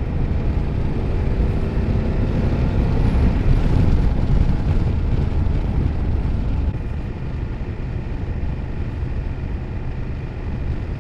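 BMW F800GS parallel-twin engine running as the motorcycle is ridden, mixed with wind rush over the microphone. The sound builds over the first four seconds, with a faint rising engine note, and eases off a little about seven seconds in.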